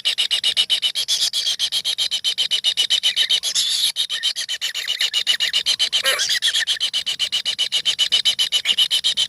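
Four tengke nestlings begging in their nest hole: a continuous, rapid pulsing chorus of rasping calls, about ten pulses a second, with a single lower call about six seconds in.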